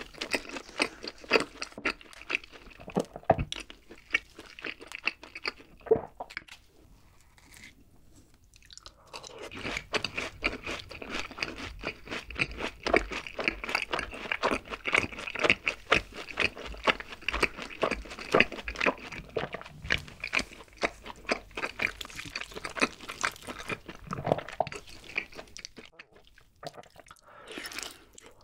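Close-miked ASMR eating sounds: a person chewing with the mouth closed, with dense crunching and wet crackling. The chewing pauses briefly about seven seconds in, then picks up again. Near the end comes a bite into a piece of sauce-glazed grilled chicken.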